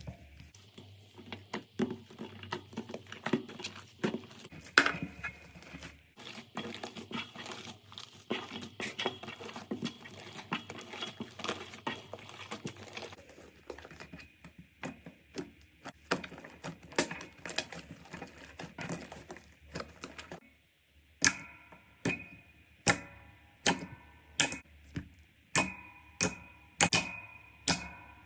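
Slime being pressed and squeezed by hand, giving a run of crackling clicks and small pops. In the last third, sharp pops come at a regular pace, about one a second.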